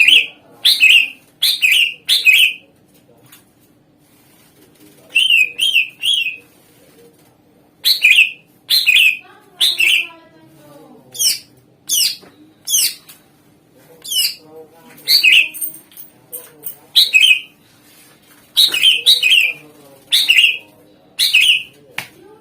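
Cucak ijo (green leafbird) singing loud, sharp whistled notes that each sweep quickly downward, delivered in rapid bursts of two to four with short pauses between.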